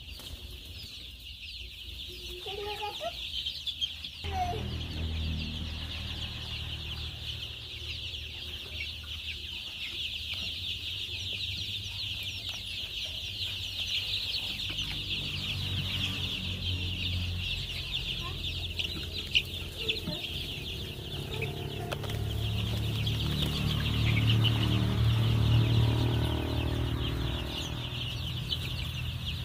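A large brood of Kaveri desi chicks peeping continuously, many high overlapping cheeps at once. A low rumble underneath starts a few seconds in and grows louder near the end.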